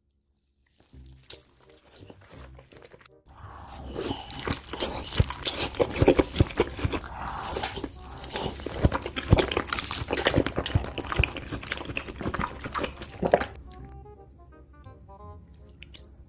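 Close-miked chewing of a huge mouthful of raw salmon, a dense run of sharp wet mouth clicks and smacks from about three seconds in until about three seconds before the end, over background music. Near the end the chewing fades and the music's pitched notes carry on alone.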